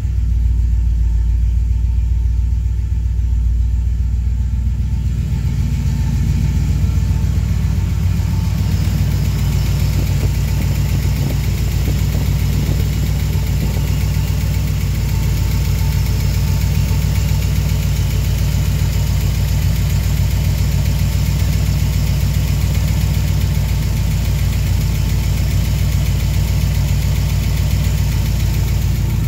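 Ford 289 small-block V8 with Fitech EFI idling steadily at about 900 rpm on a cold start, with a ticking off the left bank from a loose rocker arm. It sounds muffled from inside the car for the first few seconds, then brighter and closer at the open engine bay.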